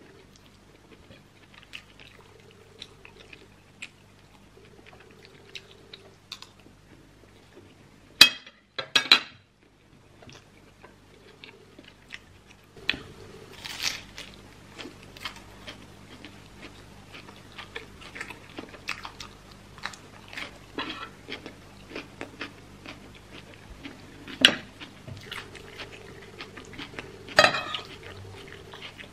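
Close-miked eating of rice and meat stew: chewing and mouth sounds with many small scattered clicks. A few louder sharp sounds come about eight and nine seconds in and again near the end. A faint steady hum lies underneath.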